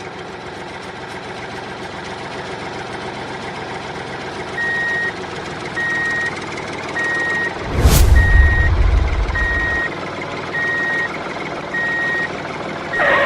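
Vehicle reversing alarm beeping about once a second over a running engine, starting a little under five seconds in. About eight seconds in a sudden loud bang with a low rumble lasts about two seconds.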